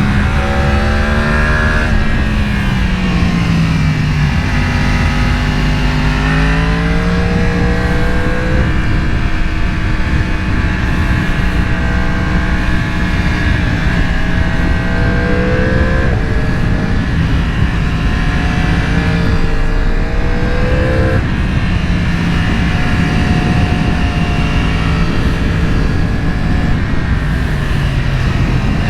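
Sportbike engine under way, its revs climbing and then dropping several times as it accelerates and shifts, over a steady rush of wind and road noise.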